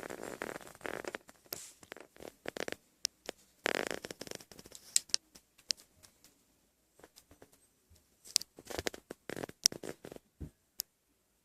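Irregular clicks, taps and rustling, like things being handled, with longer rustles at the start and about four seconds in.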